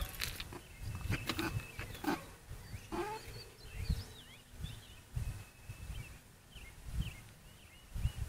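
Small birds chirping in short, quick rising and falling calls, over repeated low thumps and rumble.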